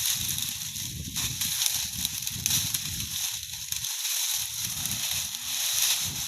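Rustling of leafy plants being pulled and gathered by hand for animal fodder: a steady dry hiss with low rumbles coming and going, easing off briefly about four seconds in.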